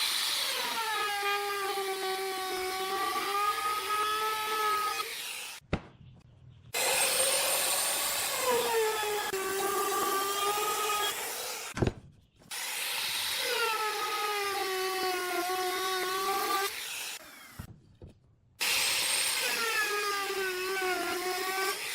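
Electric power tool cutting wood in four passes of about five seconds each. In each pass the motor's whine dips and recovers in pitch as the blade is loaded, and each pass ends abruptly.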